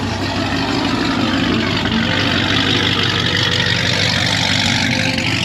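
Car engine running steadily at low revs: a low, even hum with a hiss above it.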